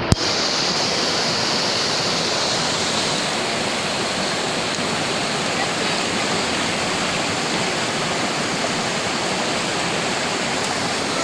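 Steady rush of fast-flowing river water over rocks, starting abruptly with a click.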